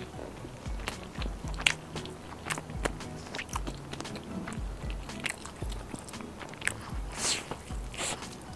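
Close-up biting and chewing of a fried chicken wing, with many sharp crisp crackles and a louder crunch about seven seconds in. Soft background music with a steady low beat runs underneath.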